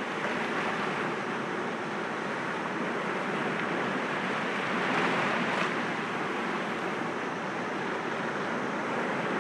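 Sea waves breaking gently against rocks: a steady wash of surf that swells a little about five seconds in.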